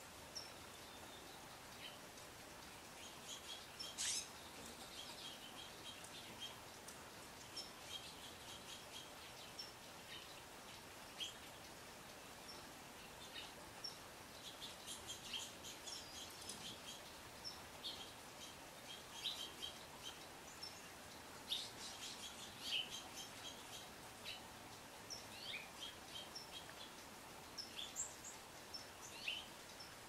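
Faint bird chirps: scattered short, high calls, clustering now and then, with one sharper, louder note about four seconds in.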